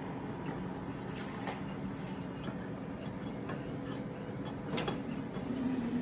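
Air fryer running with a steady fan hum, with scattered light clicks and ticks.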